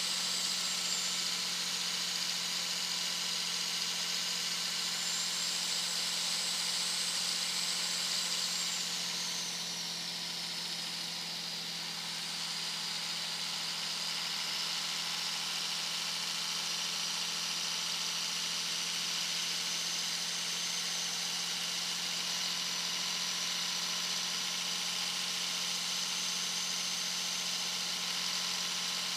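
Turbo whistle of a 2001 Dodge Ram 2500's 5.9-litre Cummins inline-six turbo diesel at highway speed: a loud, high whistle over a steady engine drone. About ten seconds in the whistle slides down in pitch and eases slightly, then holds steady.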